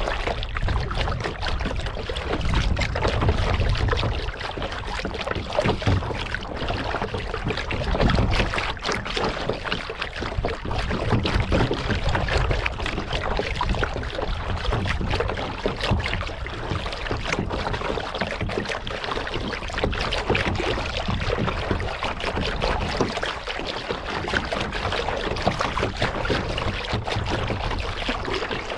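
Kayak paddle strokes: steady splashing and trickling of water off the paddle blades and along the hull, with a low rumble that swells at times.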